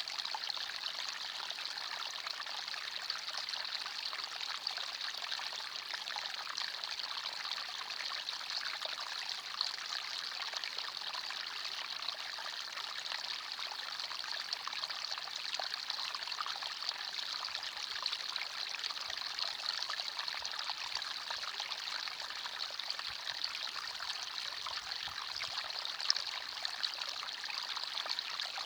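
Small forest stream flowing and trickling over stones, a steady even babble of water.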